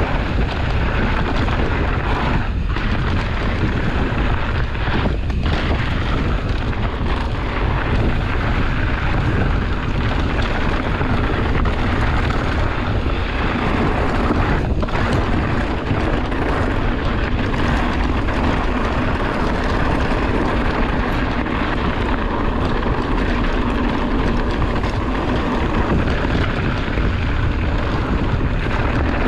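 Steady rushing noise of wind and trail on a mountain bike rider's camera microphone during a ride.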